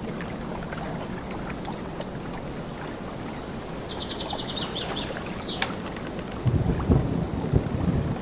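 Steady wind and lake water, with a short high, rapidly pulsed trill midway. About six and a half seconds in, a low rumble of thunder rolls in and becomes the loudest sound.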